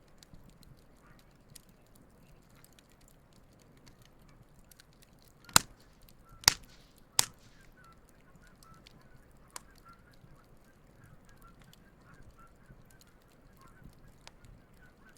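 Wood campfire crackling, with many small ticks and three loud sharp pops about midway. Geese honk faintly in the background.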